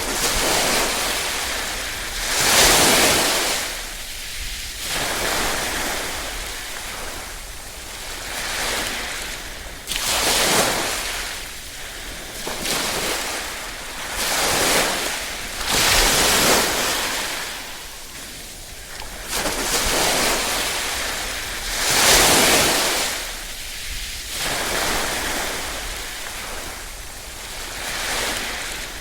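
Small waves lapping and washing onto a shore, a gentle surge of hiss every two to three seconds that swells and falls away, some swells louder than others.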